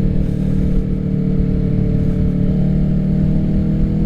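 Kawasaki Ninja 650's parallel-twin engine running through an M4 full exhaust while riding. Its note is steady, then rises slightly in pitch over the second half as the bike gently accelerates.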